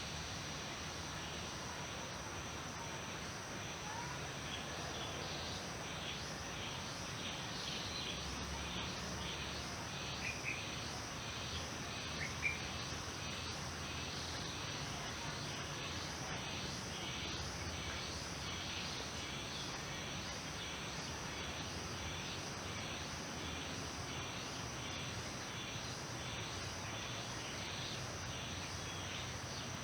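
Outdoor nature ambience: insects chirping in a steady repeating pulse over a constant high-pitched drone, with two short bird chirps about ten and twelve seconds in.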